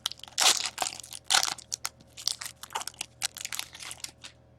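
Crinkling of a foil trading-card pack wrapper being handled, a run of short, irregular crackles that are loudest in the first second and a half and die away near the end.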